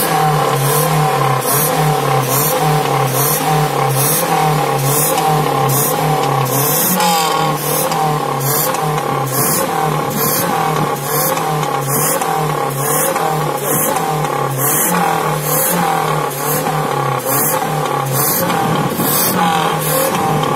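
Car engine running steadily at raised revs while it is carbon-cleaned with hydrogen, with a regular high hissing pulse about one and a half times a second.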